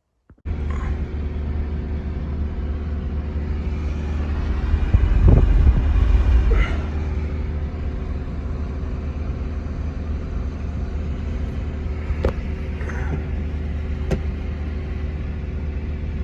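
An engine running steadily with a low rumble, swelling louder about five seconds in. It starts and stops abruptly.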